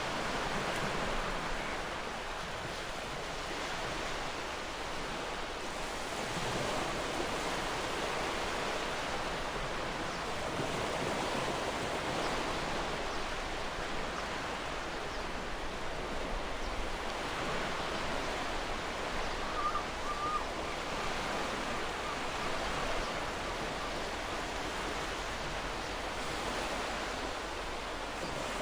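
Gentle ocean waves washing ashore: a steady hiss of surf that slowly swells and eases. A brief bird chirp about two-thirds of the way through.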